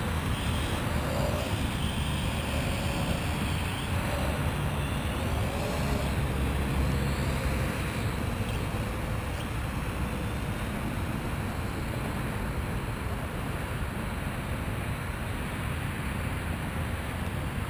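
Steady low rumbling outdoor noise throughout, with a faint wavering hum in the first few seconds.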